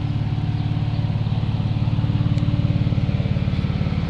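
BMW 335i's twin-turbo N54 inline-six idling steadily, running through 3-inch downpipes with one catalytic converter removed.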